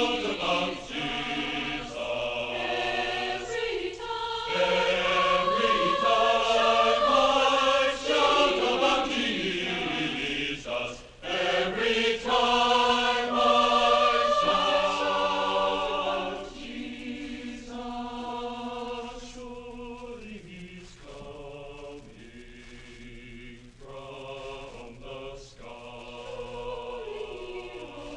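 Choir singing sustained chords. The singing is loud at first, then drops to a softer passage about sixteen seconds in.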